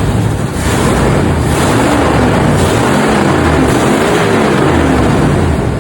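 1973 Ford F-250 truck engine running while the truck moves under its own power, its pitch rising and falling, mixed with heavy wind buffeting on the microphone.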